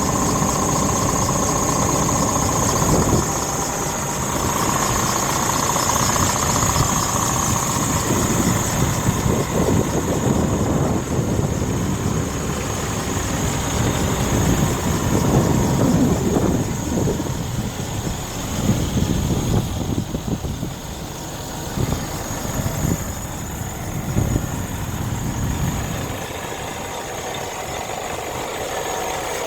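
Scania R 490 tractor unit's 13-litre six-cylinder diesel engine idling steadily, with some uneven louder stretches in the middle.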